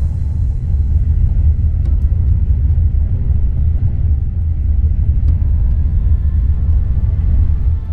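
A train running, heard as a steady low rumble.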